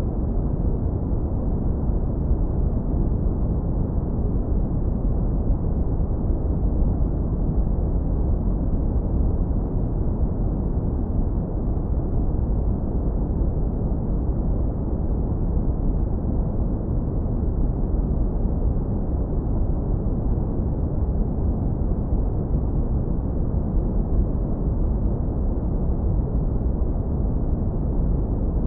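Synthetic brown noise, heavily low-pass filtered so only a deep, warm rumble remains, with nothing above the low end. Steady and unchanging.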